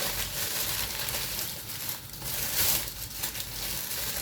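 A tightly sealed plastic packet crinkling and crackling as it is handled and torn open.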